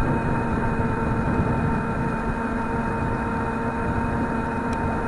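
Wind buffeting the microphone, a low rumble, over a steady unchanging hum. There is a faint click near the end.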